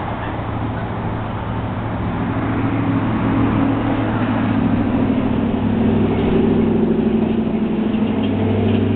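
Road traffic: a motor vehicle's engine running with a steady low drone that grows louder over the first few seconds and then holds.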